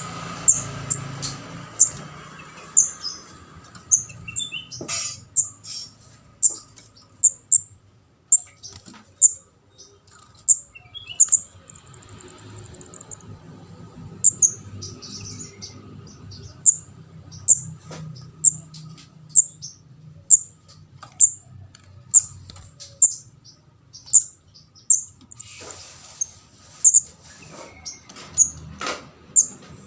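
Juvenile kemade jawa (ndas abang) begging calls, used as a bird-trapping lure: short, thin, high chirps repeated about once or twice a second.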